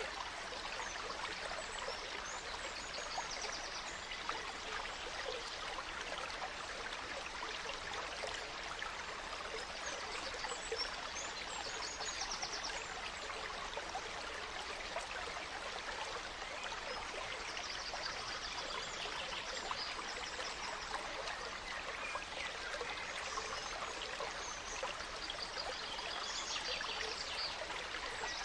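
A gentle stream flowing steadily, with small forest birds chirping briefly now and then above it.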